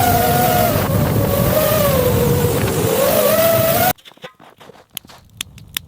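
Storm wind howling: a loud rush with a wavering, rising and falling howl, cutting off abruptly about four seconds in, leaving only faint clicks and drips.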